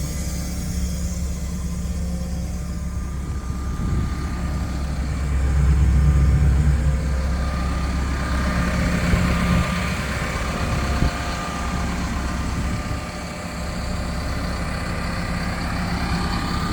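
Cat CS54B soil compactor's four-cylinder diesel engine idling steadily, getting louder for a couple of seconds about six seconds in.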